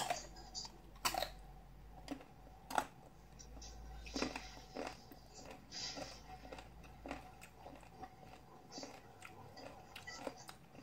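Crunchy biting and chewing of unripe green mango slices, with a few sharp crunches in the first three seconds and softer chewing after.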